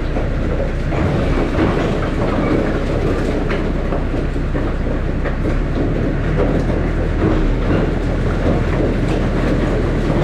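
Tractor engine running steadily, with rattling and clattering over it throughout.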